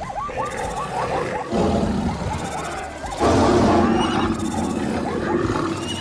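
A layered mix of wild-animal sound effects, with big-cat roars that swell loudly about a second and a half in and again around three seconds, over shorter animal calls.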